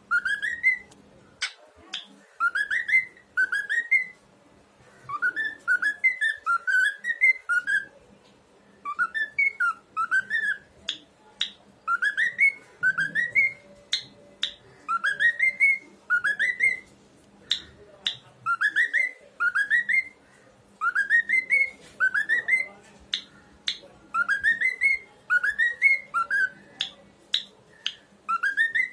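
Pet cockatiel whistling a repeated tune: runs of two or three rising whistled notes about every two seconds, with short sharp notes in between.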